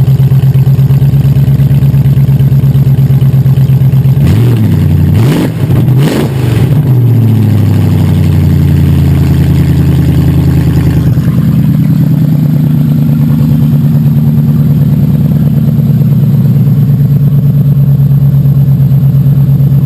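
BMW M60 V8 swapped into an E30, newly running: idling steadily, blipped twice in quick succession about four to six seconds in, then settling back to idle.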